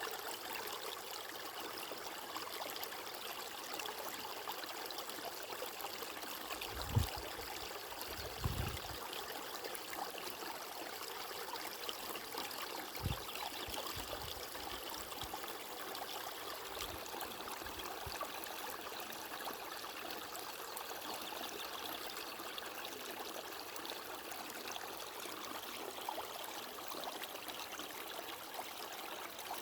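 Stream water running steadily, an even rushing trickle. A few short, low bumps stand out, about seven, eight and a half, and thirteen seconds in.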